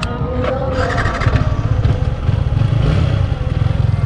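Yamaha R15 V3's single-cylinder engine running steadily, a dense low pulsing.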